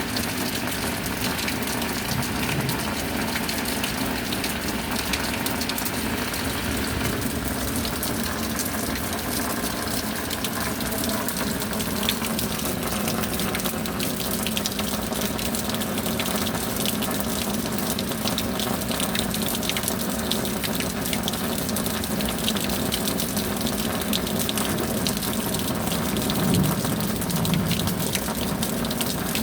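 Steady rain, an even hiss of falling water with fine pattering drops, with a brief low swell near the end.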